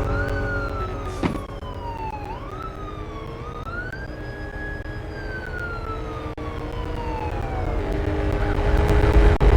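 Siren wailing. Its pitch slides down and up twice, holds high for a moment, then falls slowly over several seconds, over steady lower tones.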